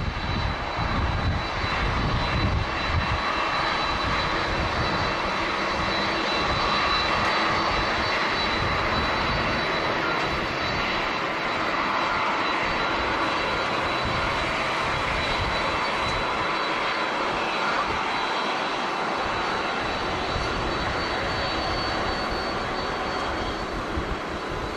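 Jet airliner engines running, a steady wash of noise with a thin high whine over it. Wind buffets the microphone with a low rumble for the first few seconds.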